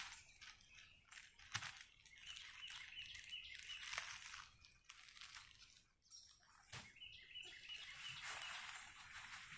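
A bird calling in two quick runs of repeated chirps, over intermittent bursts of hissy noise and a few sharp clicks.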